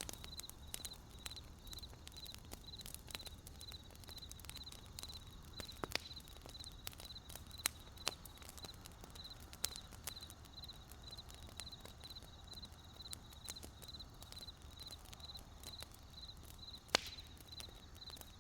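Wood fire crackling with scattered sharp pops, the loudest about seventeen seconds in, over crickets chirping in a steady, even rhythm.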